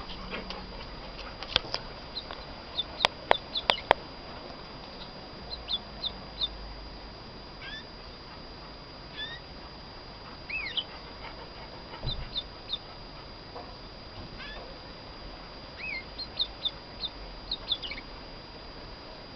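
Female domestic canary giving scattered short chirps and brief rising and falling notes, a few at a time with pauses between, not yet in full song. Four sharp clicks come in quick succession about three to four seconds in.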